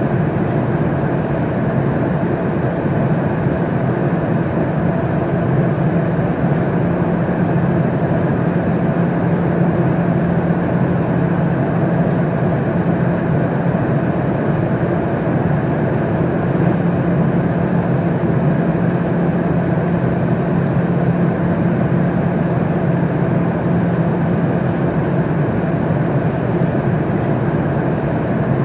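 Steady airliner cabin noise in flight: a constant low hum and rushing air with no change.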